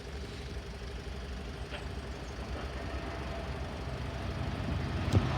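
Class 66 diesel freight locomotive approaching, its 12-cylinder two-stroke engine growing steadily louder.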